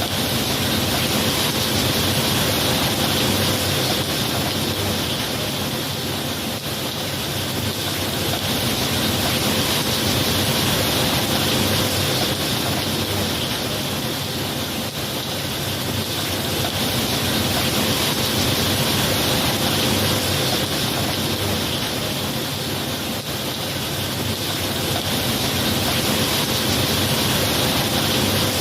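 Steady heavy rain falling, a dense continuous hiss that slowly swells and eases every several seconds.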